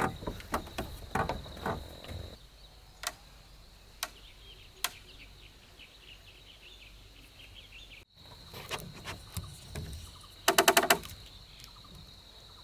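Wooden knocks and clatter from timber parts being handled and fitted during a log cabin assembly: scattered sharp knocks, then a loud rapid run of knocks about ten seconds in. A steady high insect drone and faint bird chirps run behind them.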